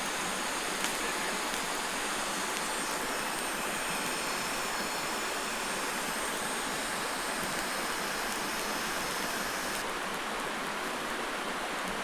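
Steady rushing of a mountain creek's flowing water, with one small click about a second in.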